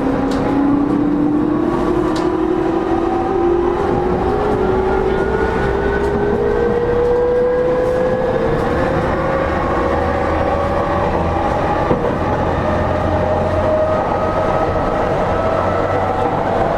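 JR East E231 series 0 commuter train heard from inside its motor car: the traction motors whine in several tones that rise slowly and steadily in pitch as the train gathers speed. Under the whine are a steady rumble of wheels on rail and one small click about twelve seconds in.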